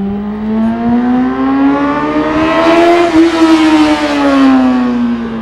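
Honda CBR600RR's inline-four engine pulling hard, its pitch climbing steadily for about three seconds and then falling away smoothly as the throttle comes off, with wind rush loudest at the top.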